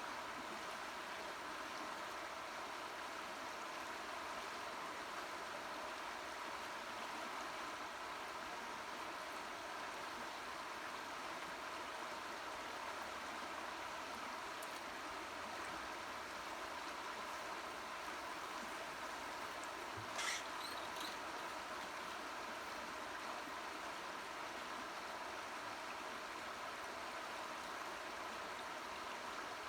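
River water rushing steadily, with a few brief sharp clicks about two-thirds of the way through.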